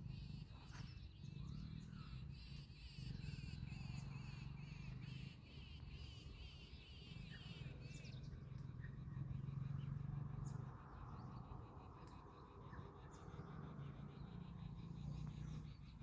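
Birds chirping in a continuous rapid chatter, turning to a finer, faster ticking about halfway, over a low hum that swells and fades every few seconds.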